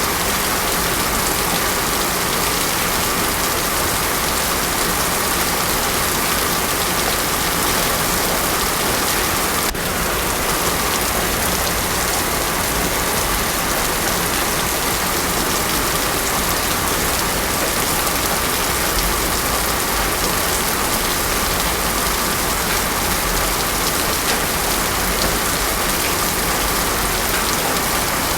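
Heavy rain pouring steadily on a paved road: a dense, even hiss that does not change.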